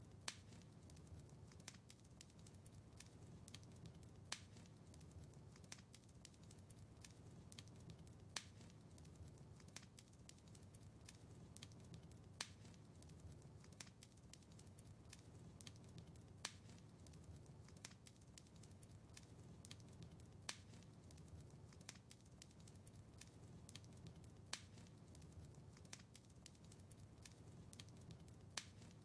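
Faint crackling fire in a fireplace: a soft low rumble of flames with many small ticks and crackles, and a sharper pop about every four seconds.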